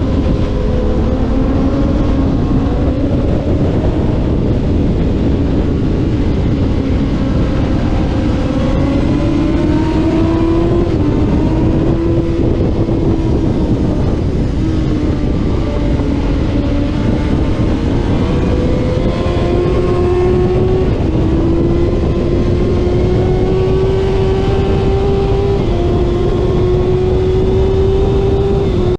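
Middleweight road-racing motorcycle engine heard onboard at speed, its note climbing and dropping back at several upshifts, over heavy wind noise.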